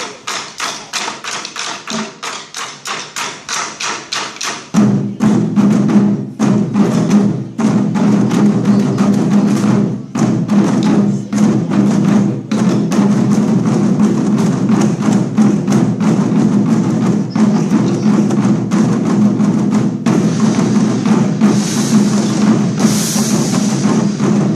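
Chinese war drum ensemble playing: a lighter, even beat of about two to three strokes a second, then about five seconds in the whole group comes in louder with fast, dense drumming. A brighter, hissing wash rises near the end.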